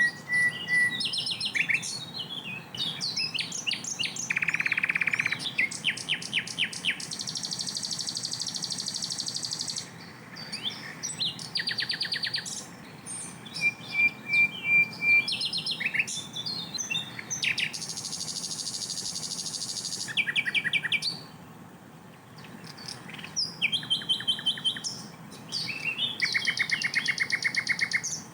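Sikatan londo flycatcher singing a loud, varied song: rapid chattering trills and clicking runs broken by long, even buzzy rattles, with short pauses between phrases.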